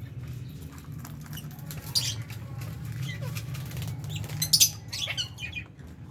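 Lovebirds and budgies in an aviary: wing flutters, scratching and clicking, and a few short chirps, with two louder sharp bursts, about two seconds in and just past the middle, over a steady low hum.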